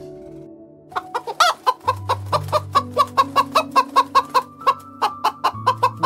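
A bird calling in a quick run of short, evenly spaced notes, about five a second, starting about a second in, over background music with long held notes.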